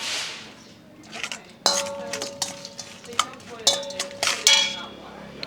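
A metal utensil stirring and knocking against a metal cooking pan of cicadas, with a few ringing clanks: one about two seconds in and two close together near the end.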